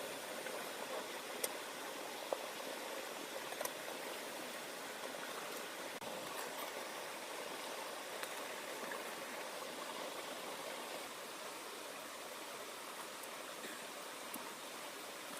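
Steady heavy rain falling, an even hiss with a few sharp drip taps standing out in the first few seconds.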